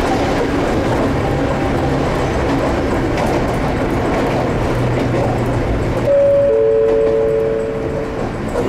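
Ohmi Railway 800 series electric train running with steady wheel and motor noise. About six seconds in, a two-note descending chime sounds, the higher note first, and fades over about two seconds: the signal that comes before an onboard announcement.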